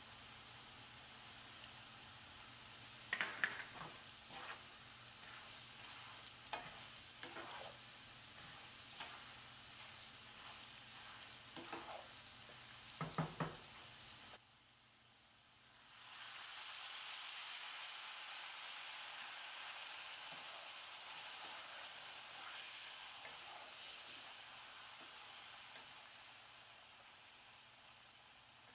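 Pork frying in hot oil in a nonstick pan with chilli flakes, bay leaves and ginger: a steady sizzle, with a few sharp clicks and knocks in the first half. The sound dips briefly about halfway, then the sizzle comes back louder and slowly fades toward the end.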